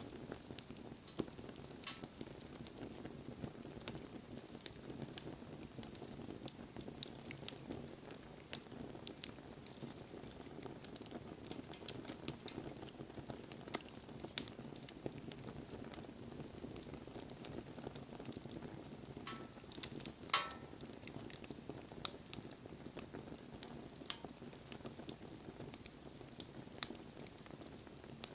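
Wood fire burning: a steady low rush with constant crackling and scattered sharp pops, the loudest pop about twenty seconds in.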